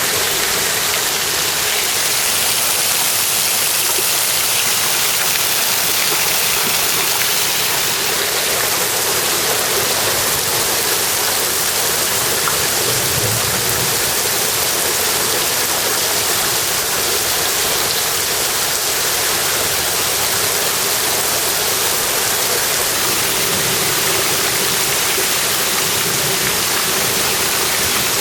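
Steady, heavy rain pouring down, an even loud hiss with no breaks.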